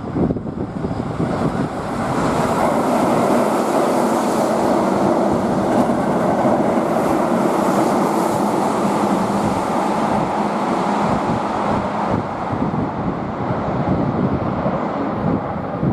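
Keihan electric train running along the platform: a steady, loud rush of wheels on rails that builds about two seconds in and eases off near the end.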